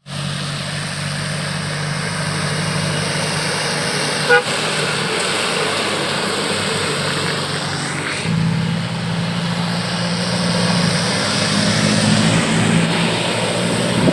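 Truck engines running through modified exhausts as a convoy passes, a steady low engine note that shifts up in pitch about eight seconds in. A short knock about four seconds in.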